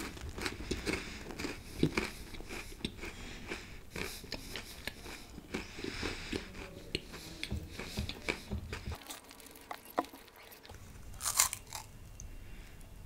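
Close-miked chewing, with crisp crunches and wet mouth clicks throughout. About eleven seconds in comes a loud crunchy bite into a nut-coated chocolate ball.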